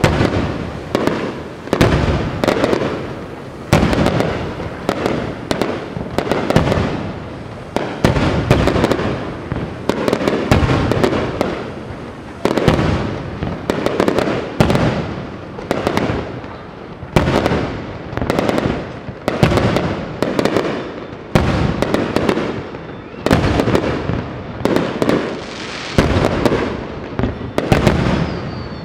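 Aerial fireworks display: shells bursting one after another, a loud bang roughly every second over continuous noise from the overlapping bursts.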